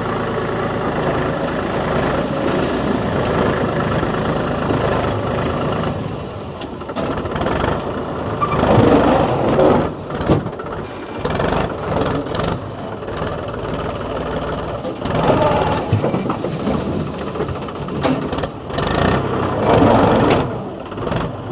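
Mahindra tractor's diesel engine running hard under the load of a trailer full of soil. It runs steadily at first, then from about six seconds in it comes and goes in uneven louder surges.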